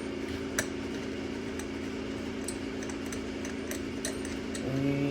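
Car engine idling steadily, with scattered light metallic ticks and clinks over it.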